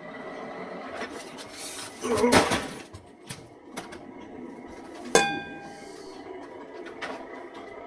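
Hard objects knocking together: a rattling clatter about two seconds in, then a single sharp metallic clang about five seconds in that rings for about half a second.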